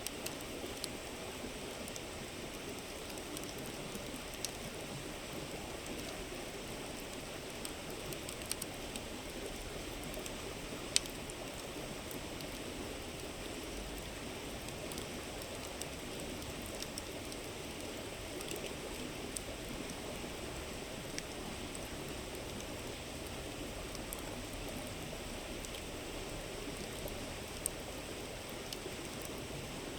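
Steady murmur of a flowing river, with scattered sharp crackles from a wood campfire; one crackle about a third of the way in is the loudest.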